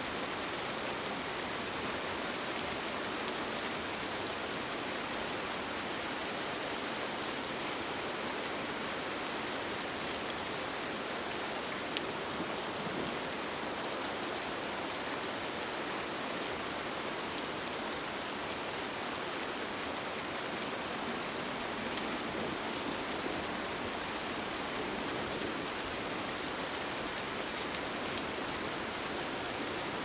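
Steady rain falling on a tent, an even hiss with scattered single drops ticking, one a little sharper about twelve seconds in.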